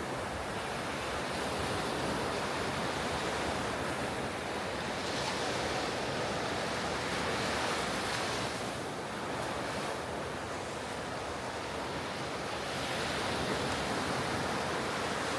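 Ocean surf breaking and washing up the beach, a continuous roar of noise that swells and eases as sets of waves come in, with some wind on the microphone.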